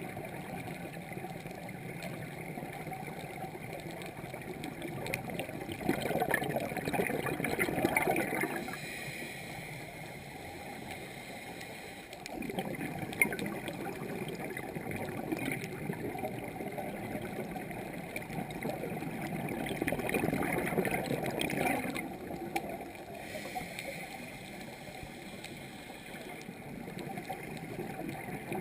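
Scuba regulator exhaust bubbles gurgling underwater, swelling in louder stretches as the diver breathes out, over a steady underwater hiss.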